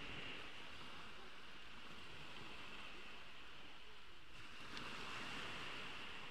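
Ocean waves washing onto a beach, a steady wash that swells again about four and a half seconds in.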